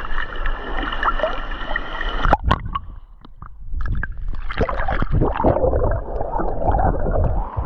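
Muffled gurgling and sloshing of water around a camera held under the surface, with sharp splashes about two and a half seconds in and again in a cluster from about four seconds.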